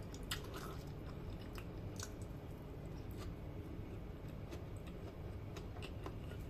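Close-up chewing of a mouthful of fried rice eaten by hand, with soft wet mouth clicks scattered through it over a low steady hum.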